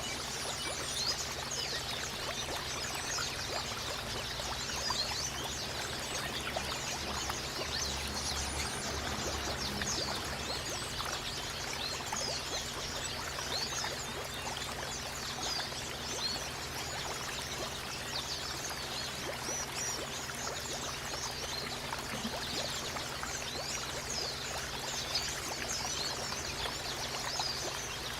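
Water running and trickling steadily, with many short high-pitched chirps scattered throughout.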